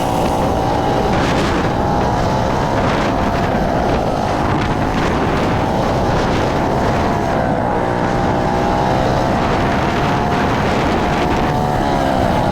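Mini bike's small engine running while riding, its note dipping and rising again a few times as the throttle changes, with wind buffeting the microphone.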